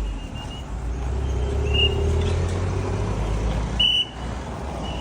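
Street traffic: a motor vehicle's engine passing, over steady road noise.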